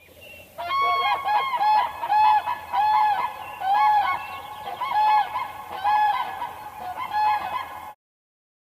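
Geese honking: a fast series of repeated, overlapping calls at two pitches, suggesting more than one bird, that cuts off suddenly near the end.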